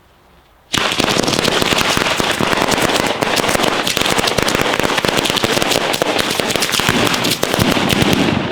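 A string of firecrackers going off: a dense, unbroken rattle of sharp bangs that starts suddenly about a second in, lasts about eight seconds and then dies away.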